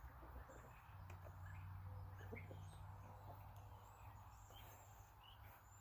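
Near silence: a faint low background hum with scattered small bird chirps and a few faint ticks.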